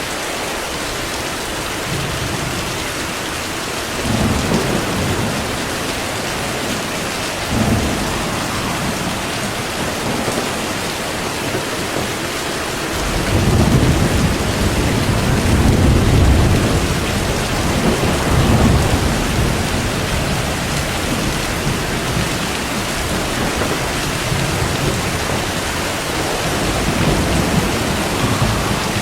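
Steady heavy rain with thunder rumbling several times: short rolls about 4 and 8 seconds in, a long, loud roll from about 13 to 19 seconds in, and a fainter one near the end.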